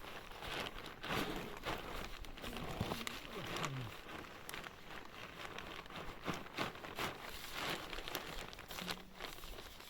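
Irregular crinkling and rustling made up of many small, sharp clicks and crackles.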